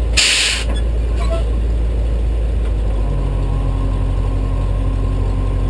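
Tow truck engine idling steadily, with a short hiss about a quarter second in.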